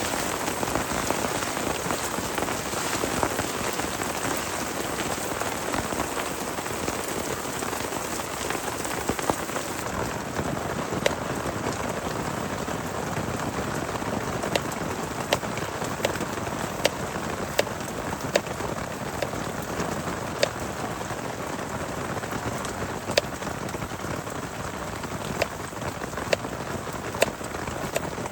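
Heavy rain falling steadily. From about a third of the way in, sharp single drop taps stand out clearly above the steady rain.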